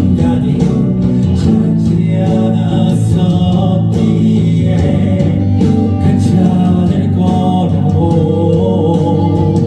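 A band playing a song, with guitar prominent.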